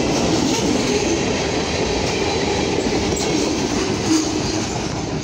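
Freight train's boxcars and tank cars rolling past at close range: a steady rumble and rattle of steel wheels on the rails.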